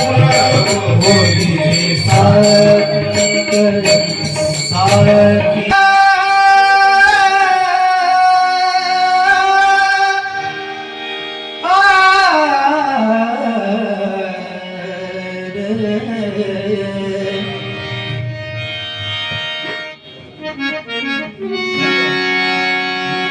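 Bhajan accompaniment. Tabla and small hand cymbals play a fast rhythm for about the first five seconds, then stop. A harmonium holds sustained notes while a voice sings a long wordless melodic run about halfway through. The percussion comes back softly near the end.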